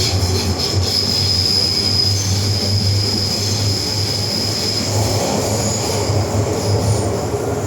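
MTR M-Train electric multiple unit running on the Island Line, its wheels giving a steady high squeal on the rails over the low rumble of the running gear.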